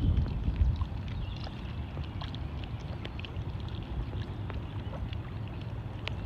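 Outdoor ambience: a low, uneven wind rumble on the microphone with scattered short bird chirps.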